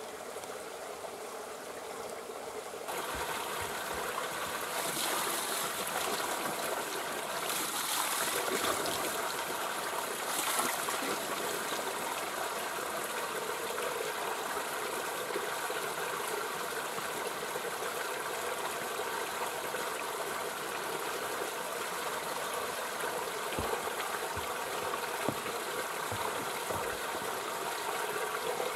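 Spring water running and splashing in a steady rush, fuller and louder from about three seconds in.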